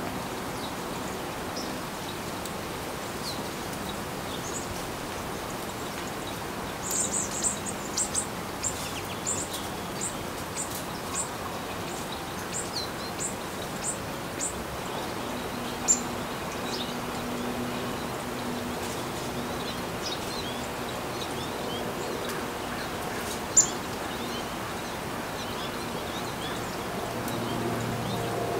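A small bird's high, thin chirps: a quick run of short notes about a quarter of the way in, lasting several seconds, then two sharp single chirps later on, over steady outdoor background noise.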